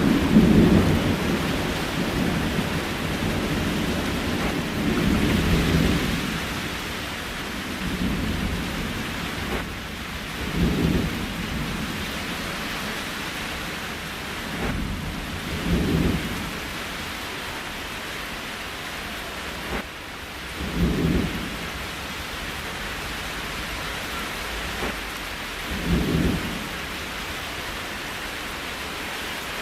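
Steady rain falling, a dense even hiss, with a short low rumble swelling up about every five seconds.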